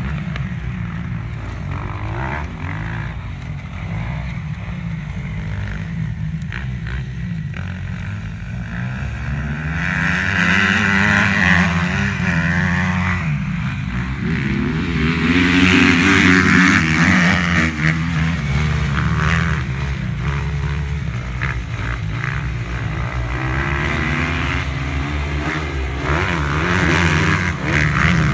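Motocross bike engines revving hard as they ride the track, swelling louder and falling away as bikes pass, loudest about ten seconds in, again around sixteen seconds and near the end, over a steady low rumble.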